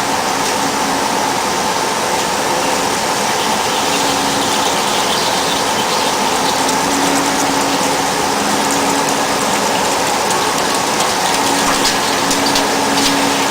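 High-speed CNC drilling machine running: a steady mechanical rush with a constant faint whine, a low hum that cuts in and out every second or two, and scattered light ticks.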